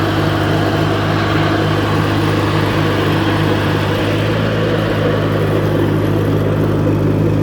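Allis-Chalmers C tractor's four-cylinder engine running steadily with the PTO engaged, driving the hydraulics that lift the Woods mower deck.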